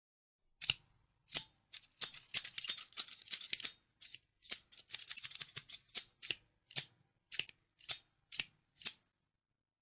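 Scissors snipping: a run of short, crisp cuts, fast and bunched together for a few seconds, then slowing to single snips about half a second apart.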